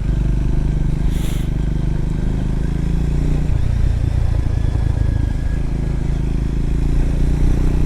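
Triumph Scrambler's parallel-twin engine running steadily under way, with a brief hiss about a second in.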